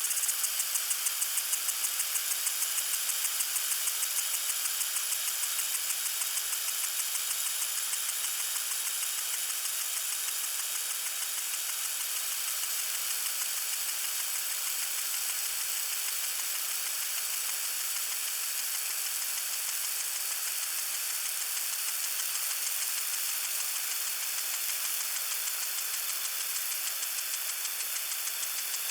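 Lawn sprinkler spraying water: a steady high hiss with a fine, rapid ticking texture. It pulses a few times a second for the first few seconds, then evens out.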